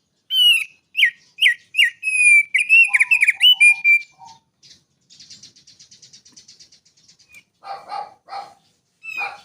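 Small songbird singing: a run of loud, sharp whistled notes, then a fast, fainter buzzy trill, then a few harsher, lower calls near the end.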